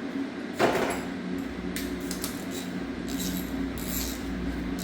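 Metal tool clinks as a socket wrench and sockets are handled at the engine to pull a spark plug: one sharp clank about half a second in, then scattered light clicks. A steady low hum runs underneath.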